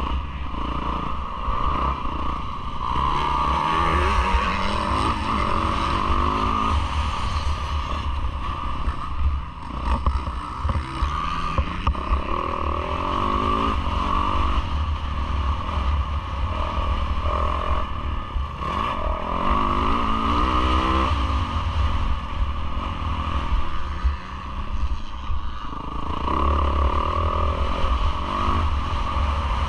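Yamaha YZ450F's four-stroke single-cylinder engine racing around a motocross track, its revs climbing and dropping again and again as the rider opens and closes the throttle through the gears. Wind rumbles over the helmet-camera microphone, with some rattling from the bike.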